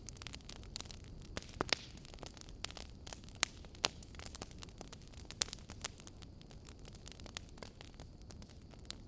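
Wood fire burning in an open fireplace: irregular crackling and sharp pops over a low steady hiss, with a few louder snaps about one and a half, three and a half, and five and a half seconds in.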